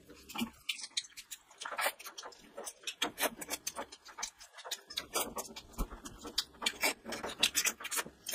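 Close-miked eating of spicy curry by hand: wet chewing and lip-smacking, heard as a dense run of short, sticky clicks that grows busier in the second half.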